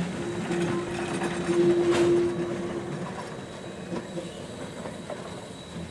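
Steam-hauled train of a 1929 Baldwin 2-8-2 tank locomotive rolling by on the track, wheels clicking over the rails, with a steady hum-like tone in the first half that stops about halfway. The sound fades as the train moves away.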